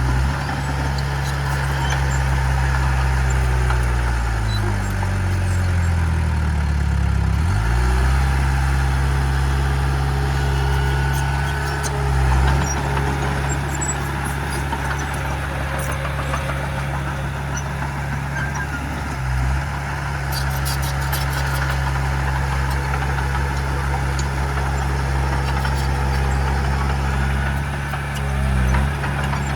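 Heavy diesel earthmoving machinery running steadily, with the engine note shifting between about four and eight seconds in.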